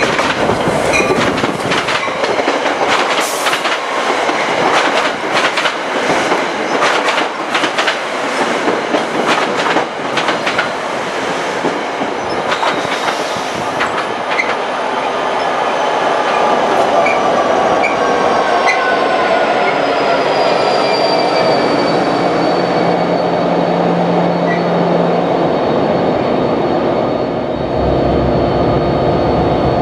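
NJ Transit commuter train with its rail cars passing close by. Rapid clicking and clacking of wheels over the rail joints fills the first half. After that come steady high tones that slowly fall in pitch, as of a train slowing.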